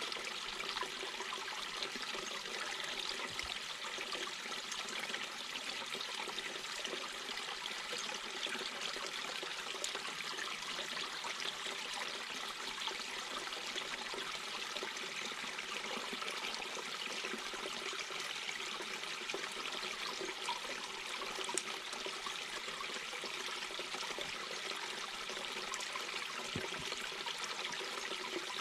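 Mountain brook babbling: water running and trickling over stones, a steady even rush.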